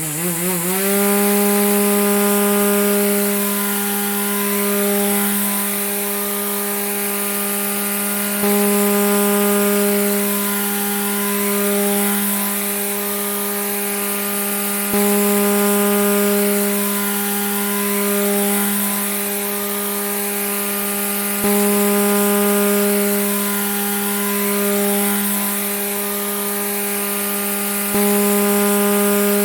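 Grass trimmer (weed eater) motor spinning up right at the start, then running steadily at high speed as a constant buzzing drone with a hiss on top. Its level jumps up abruptly about every six or seven seconds and slowly eases back.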